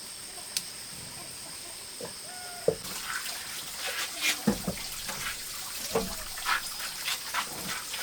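Water splashing and trickling in irregular bursts from about three seconds in, after a few short animal calls, over two steady high-pitched whines.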